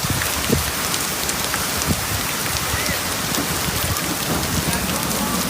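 Heavy rain falling steadily: a dense, even hiss of drops striking hard surfaces, with many small drop ticks through it.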